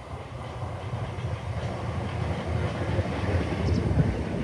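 Four-carriage electric multiple-unit passenger train pulling into a platform: a low rumble of wheels on rails that grows steadily louder as the carriages come alongside, with a few wheel knocks near the end.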